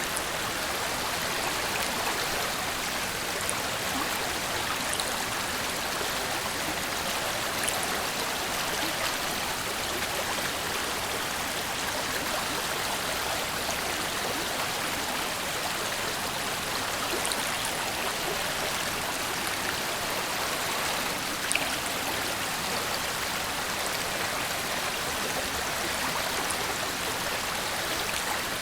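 A river flowing steadily: a continuous rush of running water with faint small splashes and trickles.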